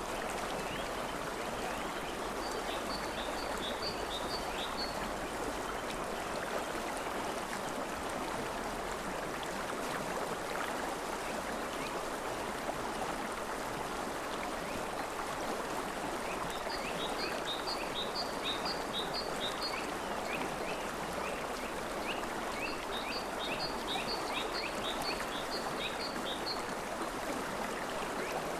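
River water rushing steadily, with three runs of quick, evenly spaced high chirps from a small calling animal over it, a few seconds each.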